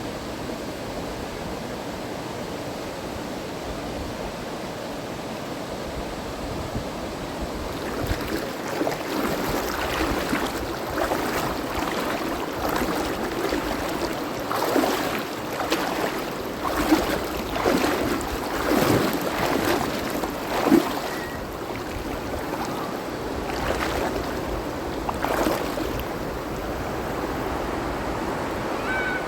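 River water flowing steadily, with irregular splashing and sloshing from about eight seconds in until near the end.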